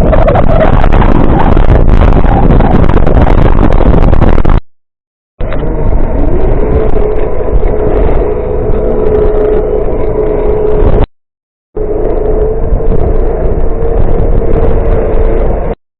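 Motor vehicle engine running loud and steady, heard in three short clips that cut off abruptly. In the later clips the engine note rises briefly, then holds.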